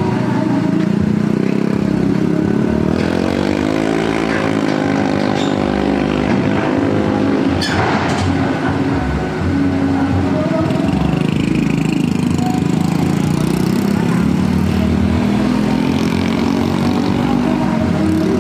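Truck engine running steadily, revving up and dropping back about four seconds in, with a short sharp noise about eight seconds in.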